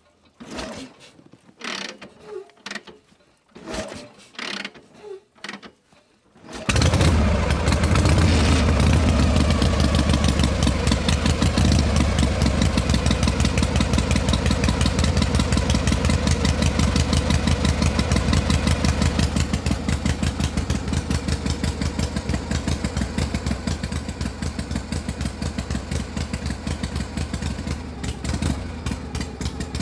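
A small engine starts up about six seconds in after a few short, separate bursts, then runs steadily with a fast, even beat, dropping a little in level partway through.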